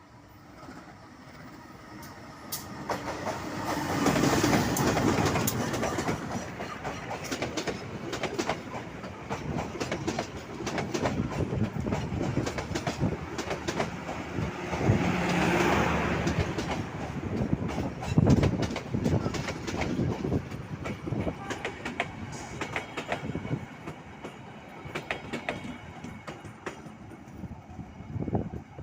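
Train hauled by a CC201 diesel-electric locomotive passing, growing louder over the first four seconds, then a long run of wheels clattering over rail joints.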